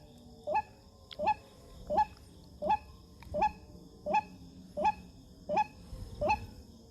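A bird calling a short, rising honk-like note over and over, nine times at an even pace of about one call every 0.7 seconds.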